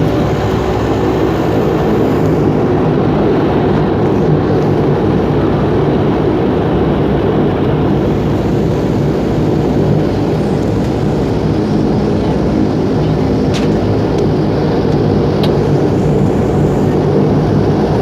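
Twin turboprop engines and propellers of a Dash 8 airliner running at takeoff power: a loud, steady drone with a deep hum underneath.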